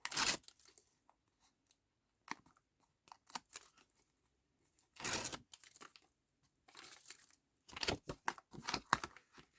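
Backing paper being peeled off double-sided tape and card handled: short tearing, crinkling rustles in several bursts, loudest right at the start, about five seconds in and near the end.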